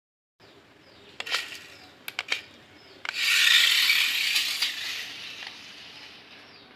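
Three sharp clicks, then a rasping, scraping noise that starts suddenly and fades away over about three seconds.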